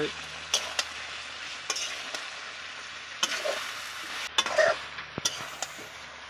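Chicken and potato curry sizzling in a large blackened wok while a spatula stirs it, scraping and knocking against the pan at irregular moments over a steady frying hiss.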